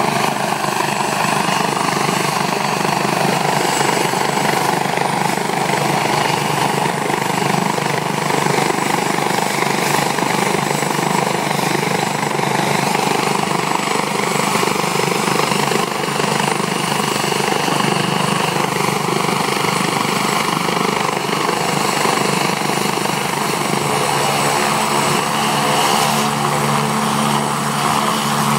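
Military helicopter's turbine engine and rotor running steadily and loudly, close by.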